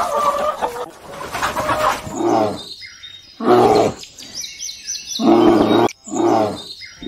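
An animal giving four loud, low-pitched calls, each about half a second long, with birds chirping between them.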